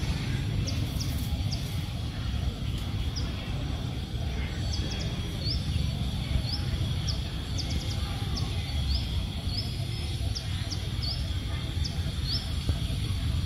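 Short, high bird chirps repeated at irregular intervals over a steady low background rumble.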